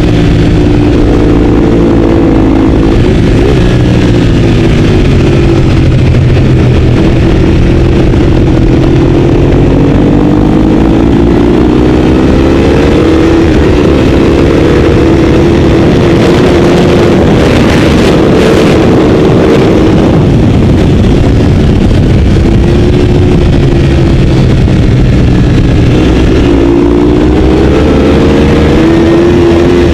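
Ducati 848's 90-degree V-twin engine heard onboard at race pace. Its note climbs repeatedly and then drops as the bike accelerates and slows through the gears.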